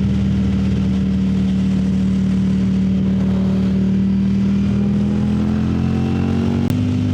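Ducati Streetfighter V4 S's V4 engine running at steady cruising revs while riding. Its note climbs slowly late on and jumps up in pitch near the end.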